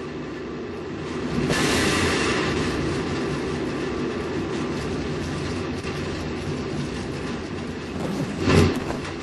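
Rocket engine roar during a launch: a steady, loud rumble that swells about a second and a half in, with a brief loud burst near the end.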